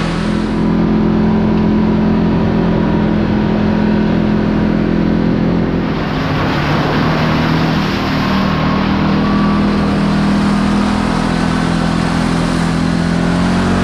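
Kawasaki KRX 4 side-by-side's engine running steadily under way, its note dipping about six seconds in and climbing again, with tyre and road noise mixed in.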